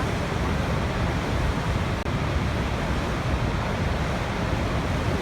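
Steady rushing noise of a waterfall, water falling and splashing without a break.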